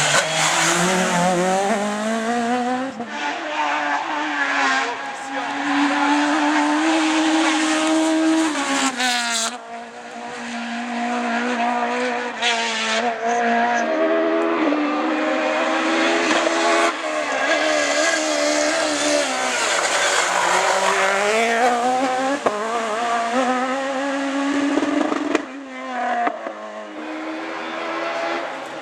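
Citroën Xsara Kit Car and F2000 rally cars driven hard on rally stages: engines revving up and falling back through gear changes and braking, with tyre squeal. The sound comes as several separate passes joined by abrupt cuts.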